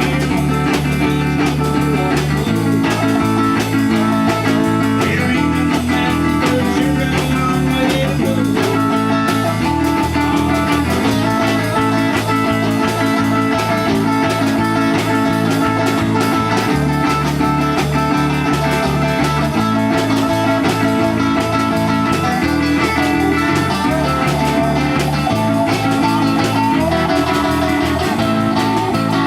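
A band playing an instrumental passage: electric guitar over a bass line whose notes change every couple of seconds, in a blues-rock style, steady and loud, with no singing.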